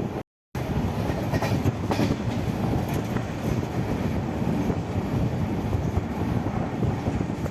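Passenger train running on the Konkan Railway line: a steady rumble of wheels on the rails, with a few sharp clacks over rail joints. The sound cuts out completely for a moment just after the start.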